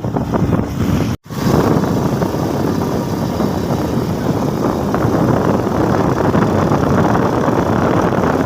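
Steady rush of wind and engine noise while riding a motorcycle on the road. It cuts out for an instant about a second in.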